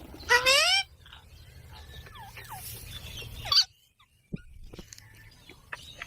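Pet green parrot calling: one loud, rising call about half a second in, followed by softer short chirps and another brief call a little past the middle.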